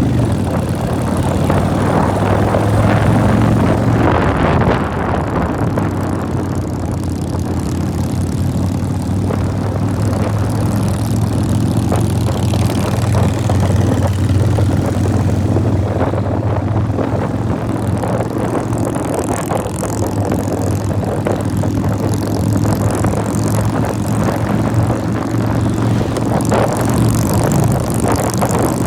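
Motorcycle engine running at a steady cruising pace, its drone even throughout, with a rush of noise over it.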